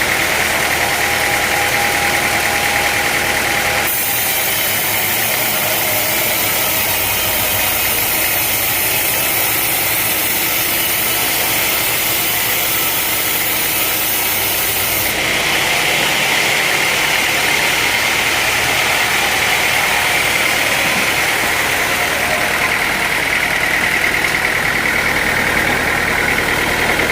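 Sawmill machinery running steadily. From about four seconds in to about fifteen seconds the sound turns harsher and hissier, then settles back to its earlier steady tone.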